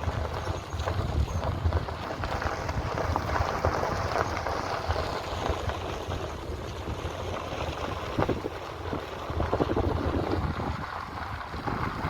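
Wind buffeting the microphone over a steady low rumble, with scattered small knocks and clicks.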